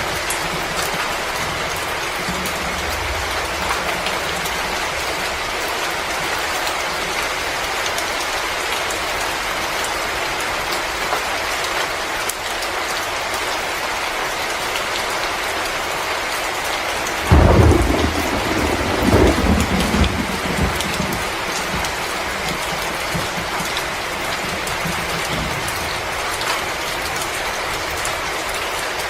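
Fireplace crackling: a steady hiss sprinkled with fine pops. About 17 seconds in, a low rumble starts suddenly and swells a couple of times over three or four seconds before dying away.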